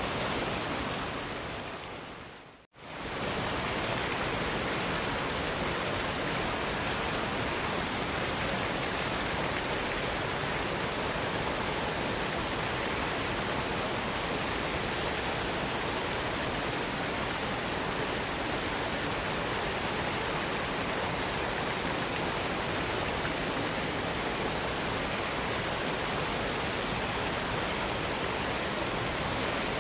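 Steady rushing roar of a waterfall. About two and a half seconds in, it fades out to silence and snaps straight back, as at the splice of a looped recording.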